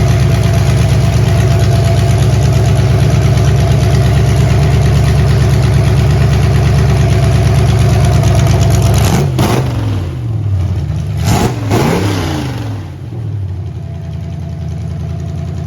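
Demolition derby car's engine running loud and steady. About nine seconds in it is revved up and down a few times, then settles to a quieter idle.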